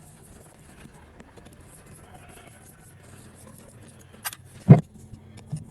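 A sharp tap, then a heavier knock about half a second later and a small knock near the end, over a faint steady background.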